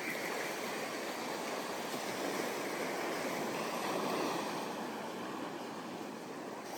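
Ocean surf washing onto a sandy beach, a steady rush of breaking waves that swells a little in the middle.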